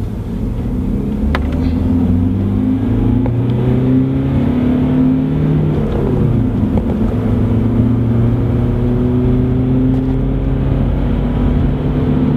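BMW 118d's four-cylinder turbodiesel heard from inside the cabin, pulling hard under acceleration with its pitch rising steadily. The pitch drops at an upshift about halfway through, then climbs again.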